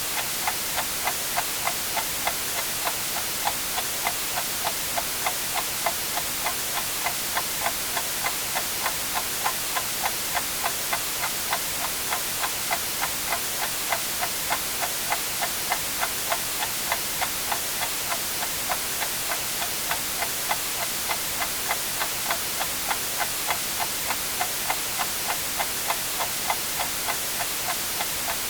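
Clock ticking steadily, about two ticks a second, over a continuous white-noise hiss.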